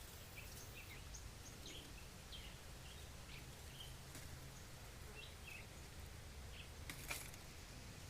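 Faint, scattered short high bird chirps over a steady low rumble, with one sharp knock about seven seconds in.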